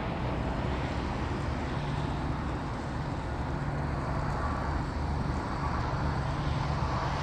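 Boeing 787-8 Dreamliner's jet engines running at idle as the airliner taxis, a steady rumble with a low hum and a faint high whine.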